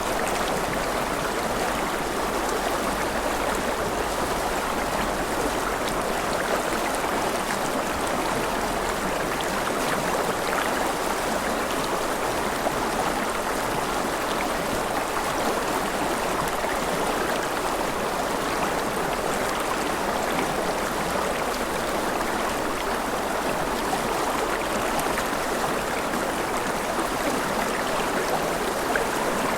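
Forest river flowing, a steady rushing and babbling of water over stones.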